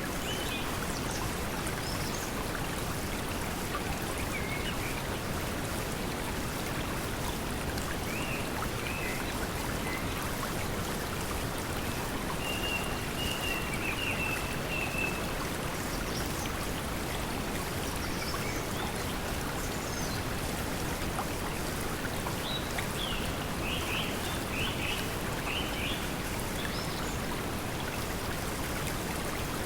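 Steady pink noise blended with flowing stream water, with scattered high bird chirps over it, including a short trill midway and a cluster of quick chirps near the end.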